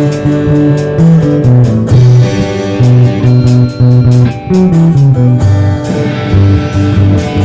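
A rock band playing live: electric guitar and bass guitar moving through a riff over a drum kit's steady hits.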